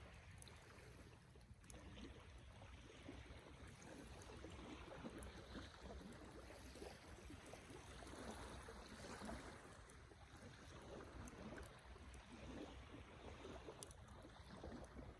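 Wood campfire burning quietly: a soft, fluttering rush of flames with faint crackles and a few small pops.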